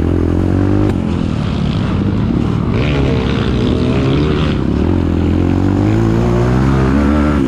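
Kawasaki KLX trail bike engine running under way, its pitch rising and falling as the throttle is opened and eased, climbing twice and dropping near the end.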